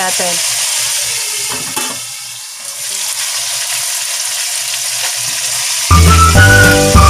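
Pork steaks sizzling in hot oil in a wok, a steady frying hiss. About six seconds in, background music with a whistled melody comes back in over it.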